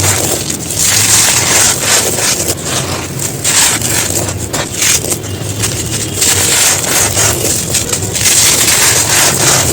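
Brittle dried chunks being crumbled and crushed, a dense, continuous run of crunches and crackles.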